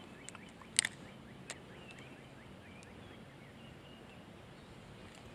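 Quiet outdoor ambience with faint, short bird chirps and a couple of soft clicks, the sharpest about a second in.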